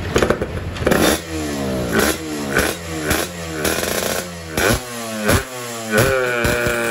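Yamaha RX King's single-cylinder two-stroke engine, on a PWK 33 carburettor, revved in repeated throttle blips, the revs rising and falling about once a second. It sounds rough and crackly for the first second.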